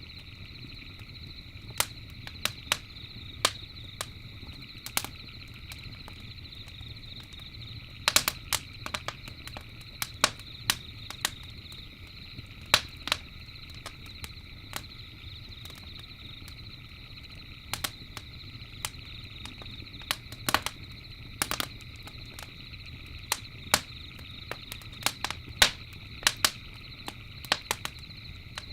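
Campfire crackling, with irregular sharp pops, some in quick clusters, over a steady high-pitched trill of night insects and a low steady rumble.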